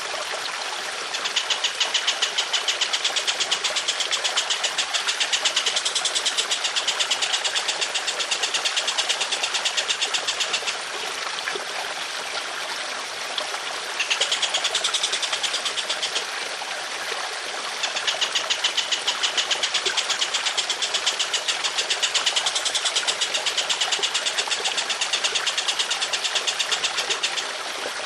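A bird giving long, rough rattling calls of very fast repeated notes in three long runs, over a steady trickle of running water.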